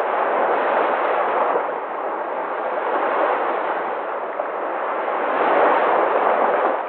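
Sea waves surging and washing, a continuous rush of surf that swells and eases every two to three seconds, loudest near the end.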